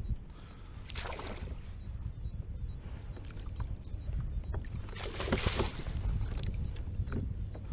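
Water sloshing and splashing around a kayak, with a steady low rumble of wind on the microphone; two louder splashes come about a second in and again around five seconds.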